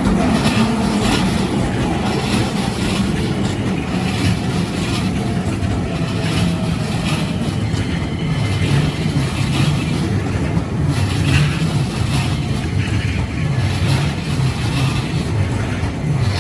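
Keikyu Line electric train passing over a level crossing: a steady rumble of the train running by, with no break.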